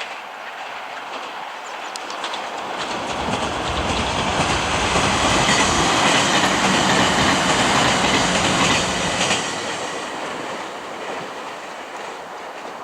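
Meitetsu Kakamigahara Line train passing. It grows louder from about two seconds in, is loudest for several seconds in the middle, and fades after about nine seconds.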